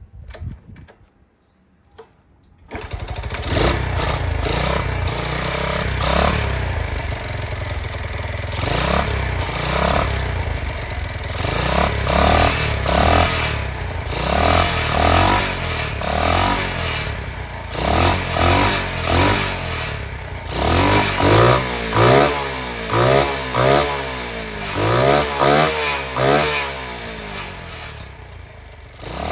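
Honda Monkey's small four-stroke single-cylinder engine starting after a couple of knocks, catching about three seconds in and then running. Through the second half the throttle is blipped again and again, the revs rising and falling in quick succession.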